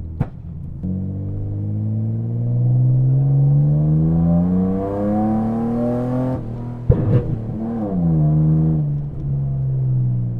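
Nissan Skyline ER34 engine accelerating hard, its note rising steadily for about five seconds. It cuts off abruptly at the shift, a sharp crack follows, then it picks up again briefly and eases off to a steady cruise.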